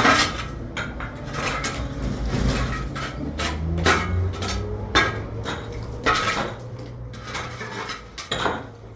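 Dishes and cutlery clinking and knocking together in a run of sharp clatters, with a low hum underneath for most of it.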